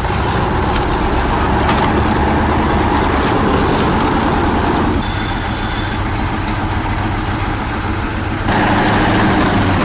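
Heavy diesel truck engine running steadily, with abrupt changes in the sound about five and eight and a half seconds in where the footage cuts.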